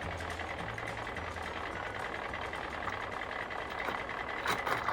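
Small die-cast toy construction truck's wheels rolling on the plastic playset ramp: a steady, even rumble with a couple of light clicks near the end.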